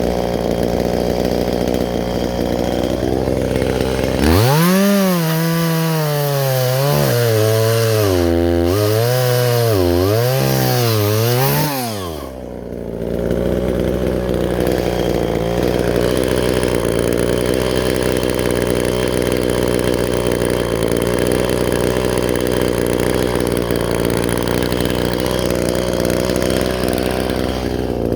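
Gas chainsaw idling, then opened to high throttle about four seconds in, its pitch dipping and rising over and over for about eight seconds before it drops back to a steady idle.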